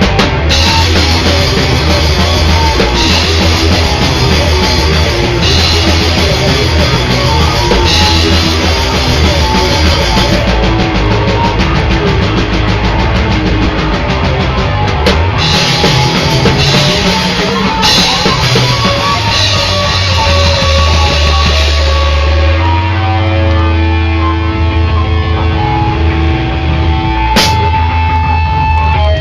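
Loud heavy rock music with distorted electric guitar and a drum kit. About two-thirds of the way through, the dense playing thins out to a few long, held notes.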